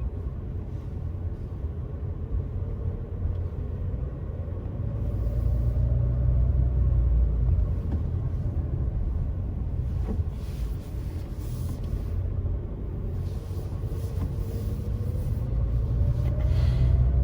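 Car driving on a country road: a steady low rumble of road and engine noise, with the engine note rising slowly twice, about five seconds in and again near the end.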